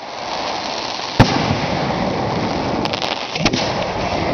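Fireworks firing at close range: a steady rushing hiss with two sharp bangs, the louder about a second in and another about three and a half seconds in, with a few faint crackles between.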